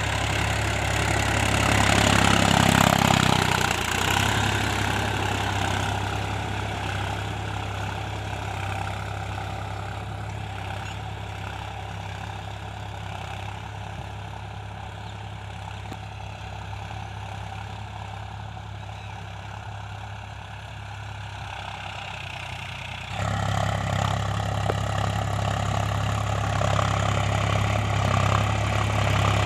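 Mahindra Yuvo Tech+ 415 DI tractor's diesel engine running steadily at a low, even pitch. It is loudest about two to three seconds in, then fades down, and becomes loud again suddenly about 23 seconds in.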